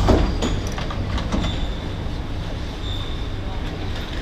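Inside a Singapore MRT train carriage: a steady low rumble and hum, with a few short knocks in the first second and a half and a faint high whine now and then.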